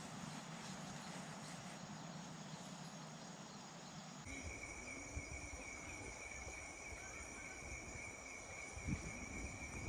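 Night insects chirring in steady high-pitched tones that set in about four seconds in, over a soft background hiss, with a faint bump near the end.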